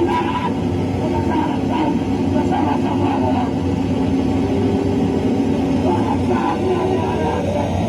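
A live band playing a loud, distorted noise-rock song, a continuous wall of sound with held tones.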